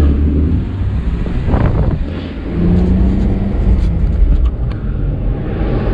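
BMW 325i's straight-six engine running as the car drives along, with steady low road rumble.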